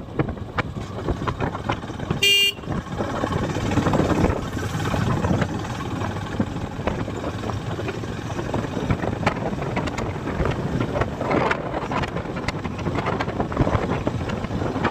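Wind buffeting the microphone and road noise while riding a motorcycle in traffic, with one short vehicle-horn toot about two seconds in.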